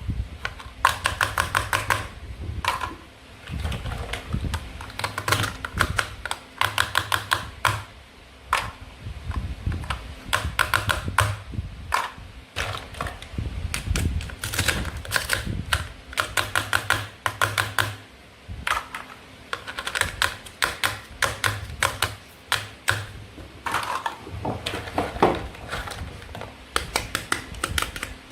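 Toy play food being cut with a toy knife: bursts of rapid, sharp plastic clicks and taps, coming in short clusters one after another.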